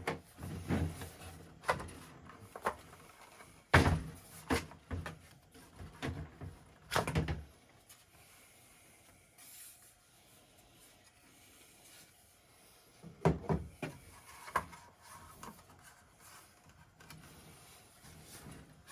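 Knocks and clunks of an air rifle being taken apart by hand, as its pins and small parts are pushed out and handled: a run of sharp knocks through the first seven seconds or so, and a few more about thirteen seconds in.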